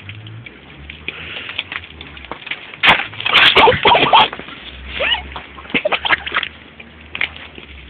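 Shoes sliding, scraping and crunching on ice and slush in irregular bursts, busiest about three to four seconds in.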